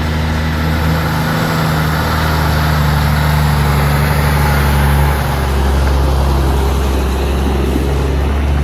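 Heavy diesel engine running steadily, with a slight shift in its pitch about five seconds in.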